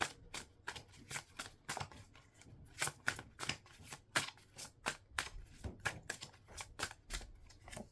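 A deck of tarot cards being shuffled by hand: a quick, irregular run of short papery slaps and clicks, about three or four a second.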